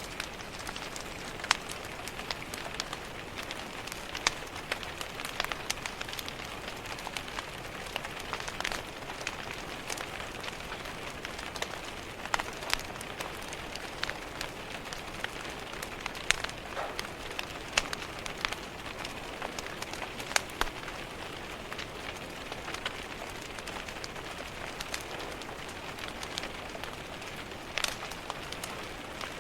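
Steady rain tapping against a window, with a wood fire crackling in a fireplace: scattered sharp pops at irregular intervals over the even hiss of the rain.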